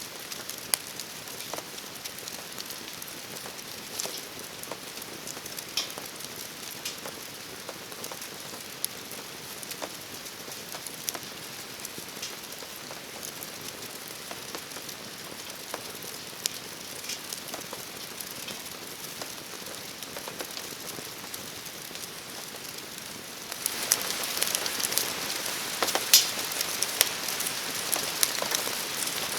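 Steady rain falling, with scattered sharp ticks and pops from drops and a crackling wood campfire. About 24 seconds in the rain gets heavier and louder.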